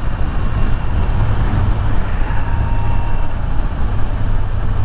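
Kawasaki Z900's inline-four engine running steadily while riding, under a steady haze of wind noise.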